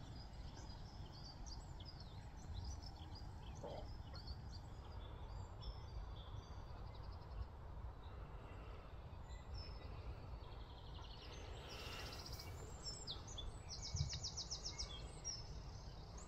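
Small birds chirping and singing, with a rapid rattling trill near the end, over a steady low rumble of outdoor noise. One soft knock about fourteen seconds in.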